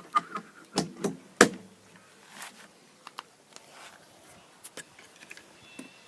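Handling knocks and clicks as the camera is picked up and repositioned: a cluster of sharp knocks in the first second and a half, the loudest about a second and a half in, then a few lighter clicks.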